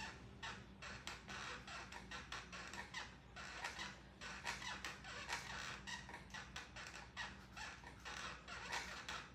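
Stationary exercise bike creaking in quick repeated strokes as it is pedalled, several a second, over a steady low hum.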